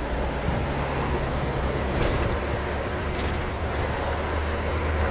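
A truck's diesel engine running steadily in low gear, with road noise, as a steady low drone. A faint high whine comes in about halfway through.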